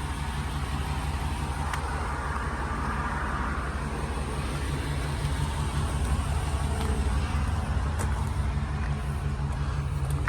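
2016 Ford E350 box truck's engine idling steadily, a low even drone that grows slightly louder toward the end.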